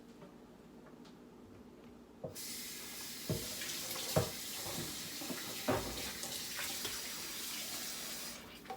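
Kitchen tap turned on about two seconds in, running water into a sink over chicken being rinsed, with a few knocks from handling; the water is shut off near the end.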